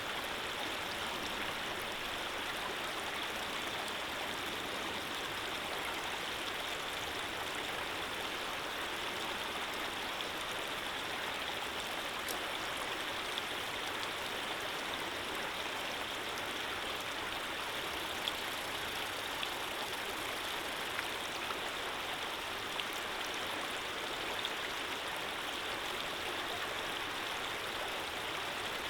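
Running water flowing steadily, an even rushing sound with a few faint ticks from drops here and there.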